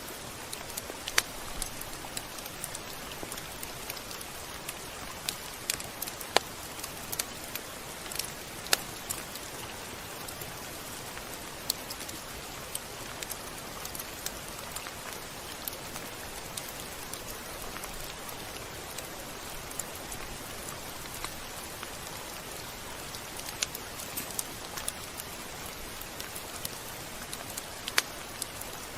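Steady rain falling on a surface, an even hiss with scattered sharper drop impacts.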